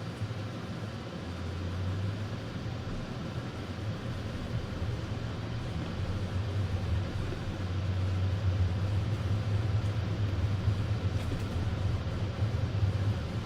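Car driving, heard from inside the cabin: a steady low engine drone with tyre and road hiss, getting somewhat louder about two-thirds of the way through.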